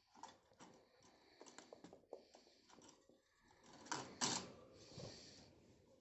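Pet budgies moving about their cage: a scatter of small clicks and scratches, with two louder short rustling bursts about four seconds in.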